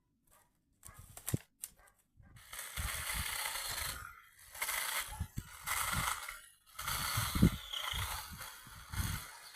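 Branches rustling and scraping as they are handled and dragged, in spells of a second or two, with low thumps, after two faint clicks.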